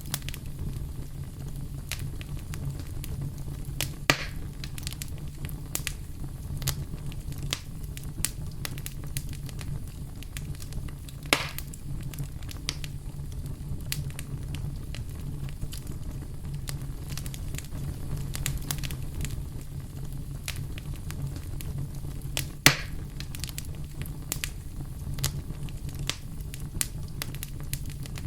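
Campfire burning: a steady low rumble of the flames with frequent sharp crackles and pops from the burning wood. Three louder pops stand out, at about 4, 11 and 23 seconds.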